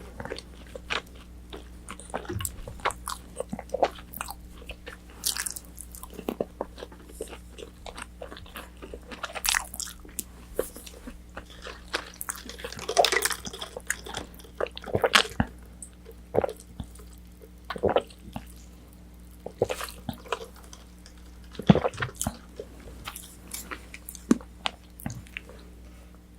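Close-miked eating of crispy battered orange chicken: bites and chewing, with irregular crunches and wet mouth clicks throughout, busiest about halfway through.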